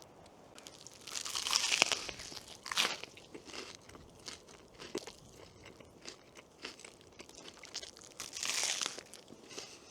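Crunching in a few separate bursts with small clicks between: the loudest a little after a second in, a short one just before three seconds, and another near the end.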